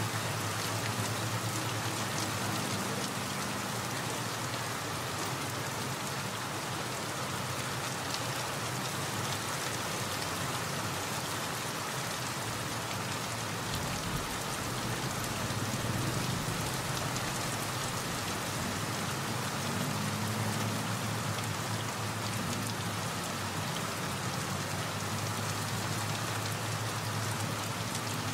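Steady rain falling, an even hiss of drops, with a low rumble that swells for a few seconds about halfway through.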